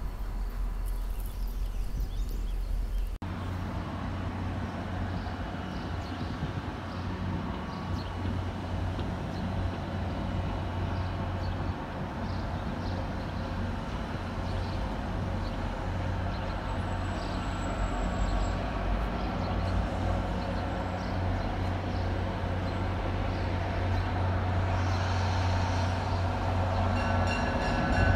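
Diesel-hauled MBTA commuter train approaching: a steady low rumble and hum that slowly grows louder as it nears.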